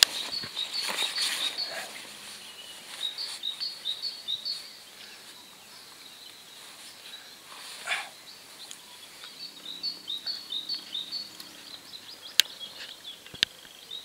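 A small songbird singing phrases of quick, high repeated chirps, twice, over outdoor ambience. Rustling handling noise on the fabric unhooking mat at the start, and two sharp clicks near the end.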